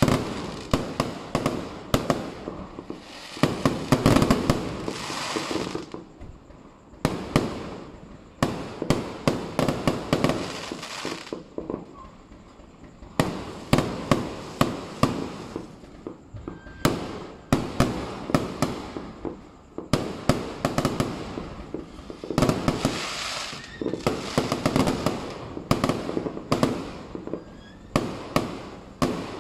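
Aerial fireworks shells bursting overhead in a continuous volley: clusters of rapid sharp bangs and cracks, with short lulls about six and twelve seconds in before the bursts pick up again.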